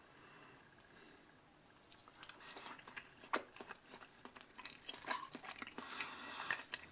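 Close-up chewing of a soft, sauce-soaked pancake, with small wet mouth clicks that start about two seconds in. A sharp click near the end.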